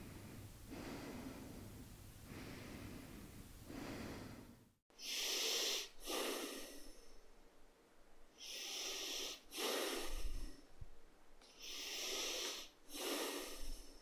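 Breathing through the nose. At first a soft, even run of nasal breaths about every second and a half; then, after a brief gap, louder and hissier nose breaths come in pairs, a longer breath followed at once by a shorter one, about every three seconds.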